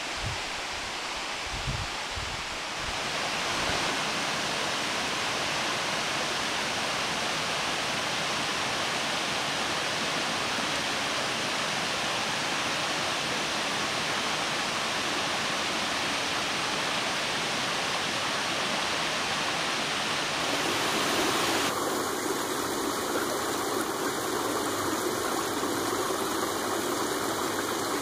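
Waterfall rushing: a steady wash of falling water that grows fuller about three seconds in.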